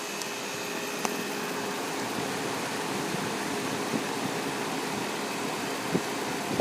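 Guardian 4-ton heat pump outdoor unit running steadily: an even rush of condenser fan air with a faint hum and a few faint tones, and a couple of small ticks.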